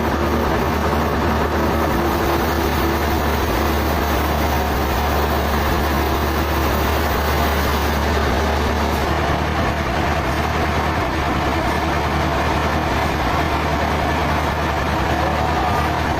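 Sawmill machinery running steadily: a constant loud, low engine-like drone with a dense mechanical noise above it, no distinct cuts or impacts.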